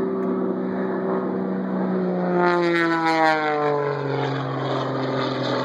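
Propeller stunt plane's engine droning past; its pitch drops about halfway through as the plane goes by, then holds lower.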